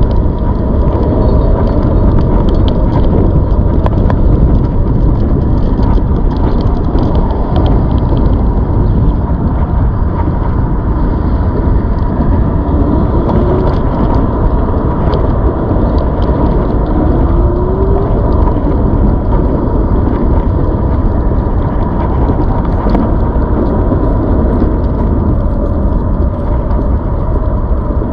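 Steady rumble of wind buffeting the microphone on a moving ZOOZ electric bike, with a thin steady whine running under it.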